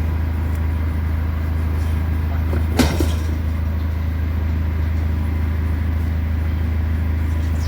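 A steady low machine hum with a single sharp knock about three seconds in.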